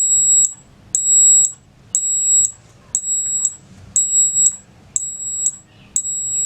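Arduino alarm clock's buzzer sounding the alarm at its set time: high-pitched beeps, each about half a second long, repeating once a second.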